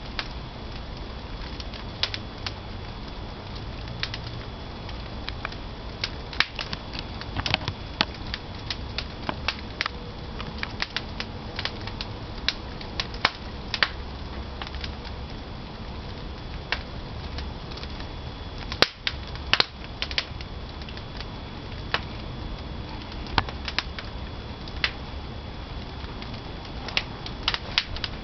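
Pine firewood burning in a traditional wood-fired kiln, crackling with irregular sharp pops over a steady low noise of the fire.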